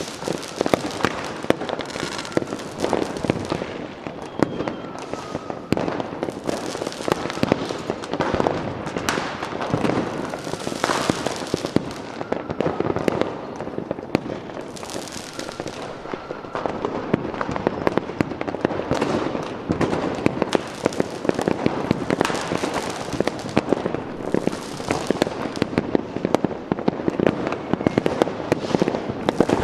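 Fireworks going off in a dense, continuous barrage of bangs and crackles, with a surge of hiss every few seconds.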